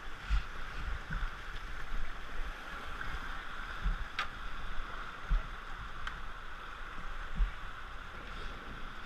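River water rushing steadily around a whitewater raft, with scattered low thumps and a couple of sharp clicks.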